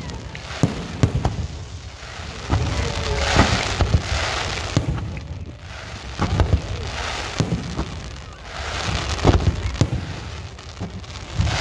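A fireworks display: aerial shells bursting in a run of sharp bangs, about one or two a second, with a noisy hiss swelling and fading between them.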